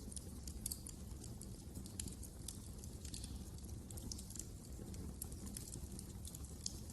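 Wood fire burning in a fireplace, crackling and popping irregularly over a low, steady rumble of flames.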